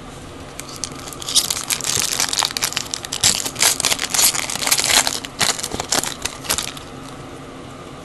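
Wrapper of a trading card pack crinkling and crackling as it is torn open and pulled apart, for about five seconds.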